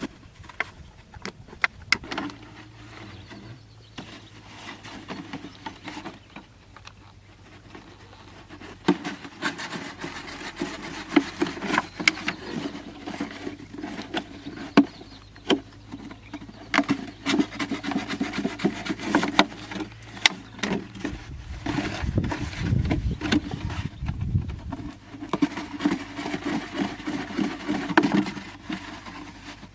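Hand tool scraping and rubbing at material in irregular strokes, with scattered sharp clicks and knocks.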